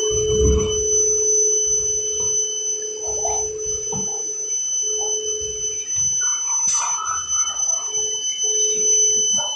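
Vacuum cleaner running with a steady whine, with irregular knocks and rattles as the nozzle works over a dirty subfloor and sucks up debris.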